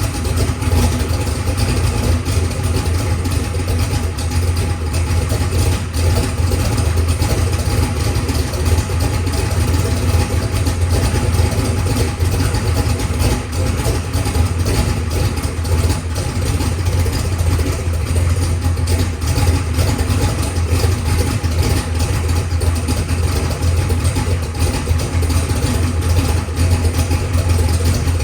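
Methanol-fuelled race car engine idling steadily on its first start-up after the build.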